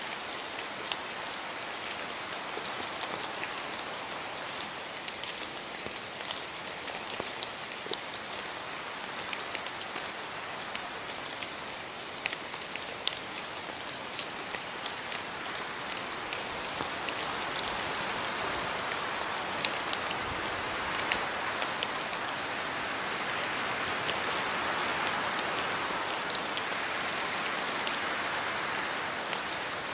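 Steady rain falling on a house yard, a dense hiss with many individual drops pattering sharply, growing a little heavier in the second half.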